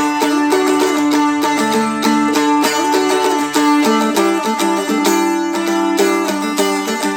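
Seagull Merlin, a four-string fretted dulcimer-type instrument, strummed steadily through a chord pattern, with the open high D string left ringing as a drone under the changing chords.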